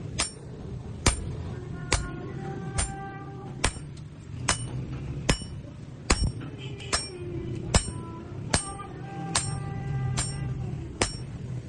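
Blacksmith's hammer striking hot steel on an anvil at a steady pace, a little over one ringing blow a second, while a scrap-metal farming blade is forged.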